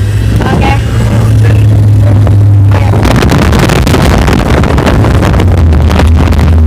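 Off-road vehicle engine with a steady low drone, recorded loud and distorted, with crackling jolts and wind buffeting on the microphone throughout.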